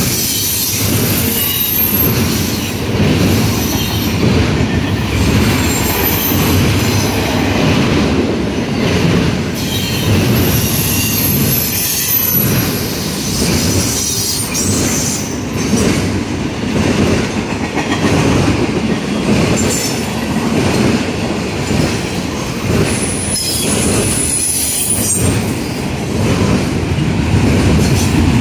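Double-stack intermodal freight train's well cars rolling past: a steady rumble of steel wheels on rail with a rhythmic clatter over the rail joints, and high-pitched wheel squeals that come and go several times.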